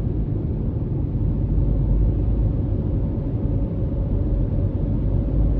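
Steady low rumble of a vehicle being driven on a road: engine and tyre noise with no sharp events.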